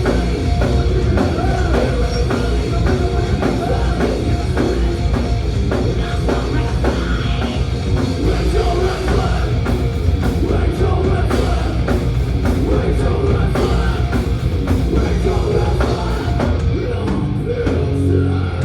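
Thrash metal band playing live at full volume: distorted electric guitars, bass and a fast pounding drum kit, with some vocals, heard through the venue's PA.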